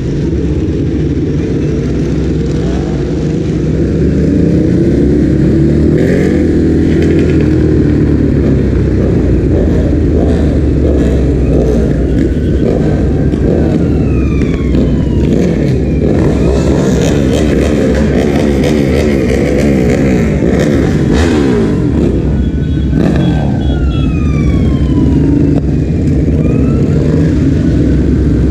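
Ducati Hypermotard's L-twin engine running and revving up and down through the gears in city traffic. An ambulance siren wails over it in the second half.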